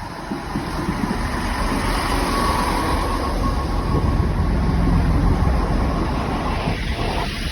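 Two coupled Class 165 diesel multiple units pulling away slowly, their underfloor diesel engines running under power with a steady low rumble that grows a little louder. A faint thin whine comes in about two seconds in.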